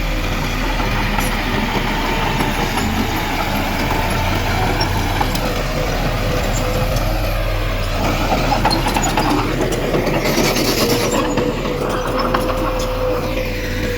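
Heavy diesel earthmoving machinery running steadily with a continuous rattle and a steady low rumble. There is a short hiss about ten seconds in.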